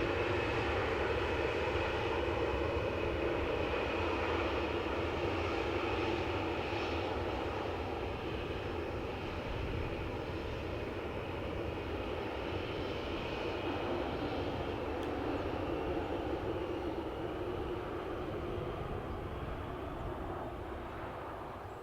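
Jet airliner's engines: a steady drone with a faint high whine, fading away over the last few seconds.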